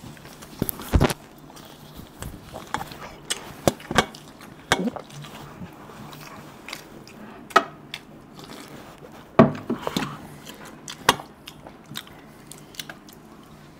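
Two people chewing and biting mouthfuls of whole boiled egg without using their hands, with irregular wet mouth clicks and smacks.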